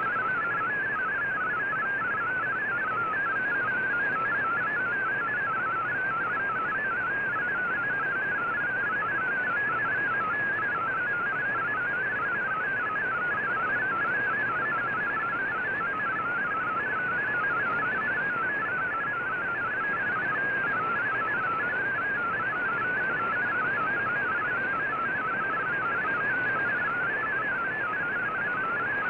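MFSK digital-mode data signal received on a shortwave radio: a warbling stream of tones hopping rapidly in a narrow band, over steady receiver hiss.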